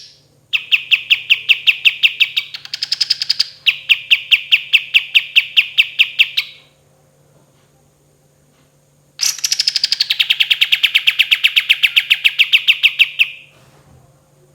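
A kapas tembak songbird giving two long rattling trills of rapid, evenly spaced notes, the first lasting about six seconds with a brief higher-pitched stretch in the middle, the second starting high and settling lower, with a pause of a few seconds between them.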